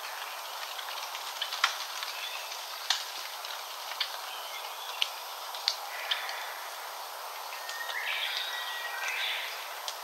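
Wild forest birds calling: a string of short, sharp call notes about once a second for the first six seconds, and a longer song phrase near the end, over a steady hiss of forest ambience.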